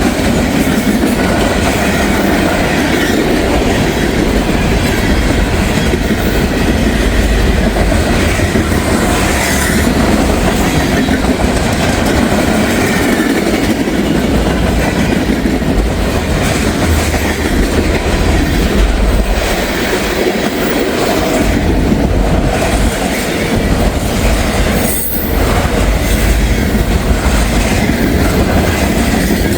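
CSX freight train rolling past at close range at moderate speed, its cars' wheels clattering over the rail joints with a faint wheel squeal.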